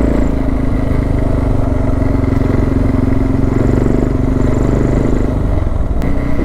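Suzuki DR650's single-cylinder four-stroke engine running steadily under way, heard onboard, its note easing slightly near the end, with a single sharp click about six seconds in.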